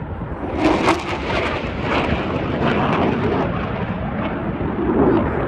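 Fighter jet passing low: loud, steady jet noise with a deep rumble and a rough crackle.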